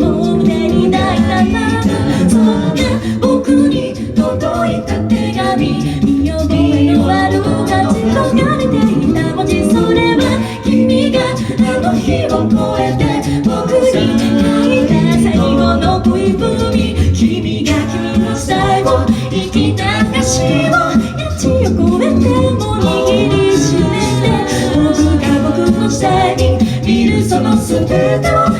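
Music: a cappella singing of a pop song, voices carrying the melody over a sung bass line and a steady beat.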